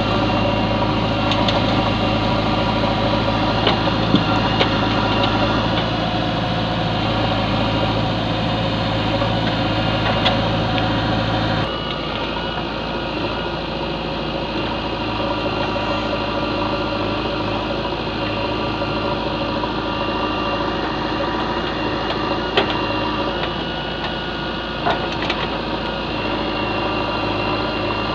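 Heavy diesel machinery engine running steadily, with a few sharp clanks now and then. About twelve seconds in, the low hum drops and the engine gets a little quieter.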